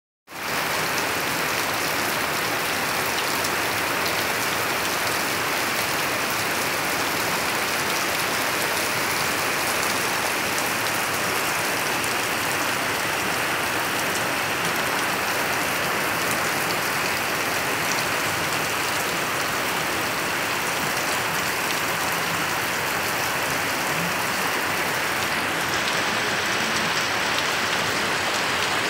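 Heavy monsoon rain falling steadily on leaves and wet ground: an even, dense hiss that holds constant throughout.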